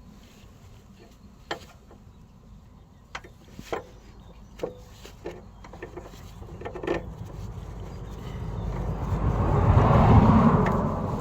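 A few scattered light clicks and knocks from repair work on the car, then a vehicle going past: a rushing noise that swells over a few seconds, peaks and fades again near the end.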